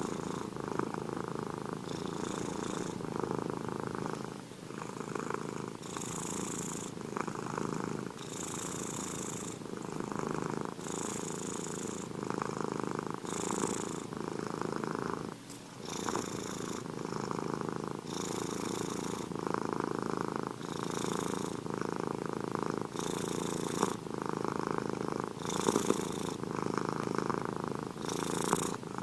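Domestic cat purring steadily and close up. The purr swells and eases with each breath, about every two and a half seconds.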